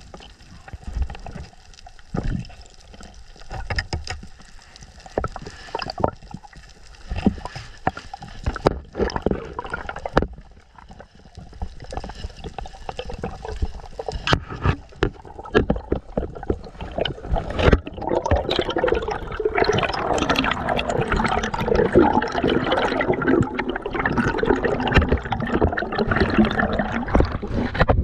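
Water sloshing and gurgling on a diver's camera, with irregular clicks and knocks, growing busier and louder in the second half.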